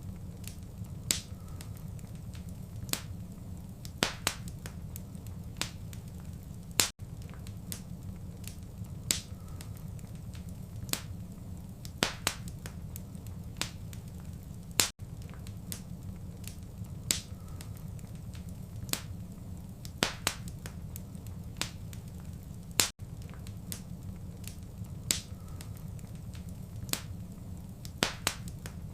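Wood fire crackling in a fireplace: irregular sharp pops and snaps over a steady low rumble of burning. The sound cuts out briefly about every eight seconds.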